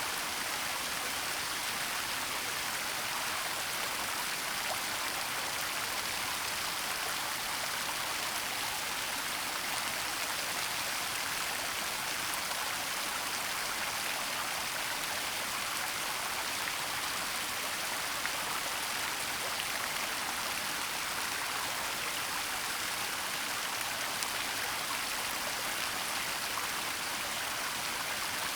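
Waterfall and stream water rushing steadily, a constant hiss with tiny splashing ticks.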